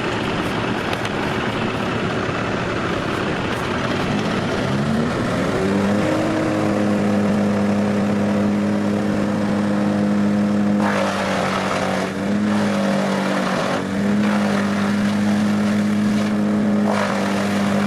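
Wood chipper running. There is a rough, noisy churning at first; then, about a third of the way in, its engine pitch climbs and holds at a steady high speed, sagging briefly twice later on.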